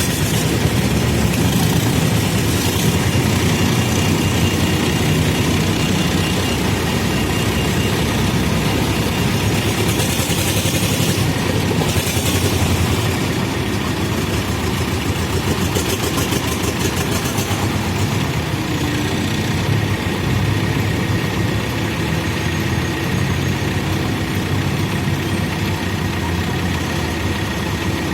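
Diesel engine of a Terex backhoe loader running steadily as the machine works, with two short bursts of hiss partway through.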